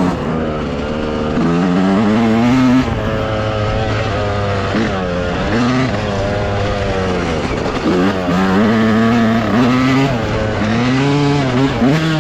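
Dirt bike engine revving under riding throttle, its pitch climbing and dropping again and again as the rider works the throttle and shifts.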